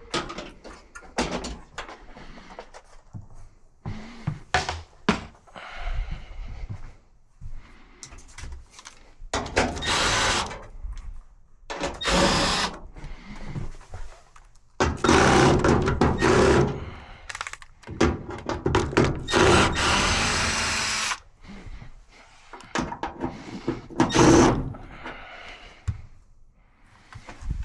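Hands-on work on a dryer: several short runs of a power tool with knocks and thunks of metal parts being handled in between. The longest run is about three seconds, starting near the middle.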